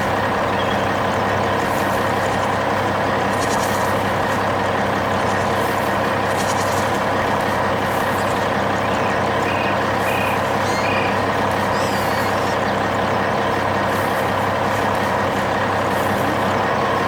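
Heavy farm machine's diesel engine running steadily at a constant load, with a deep even hum.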